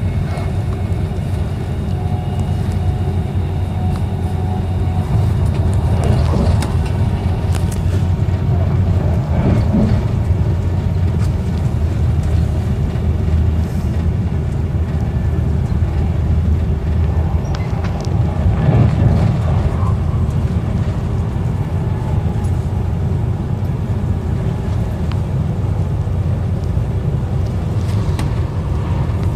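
Moving train heard from inside the carriage: a steady low rumble of wheels running on the rails, with a few faint clicks and knocks.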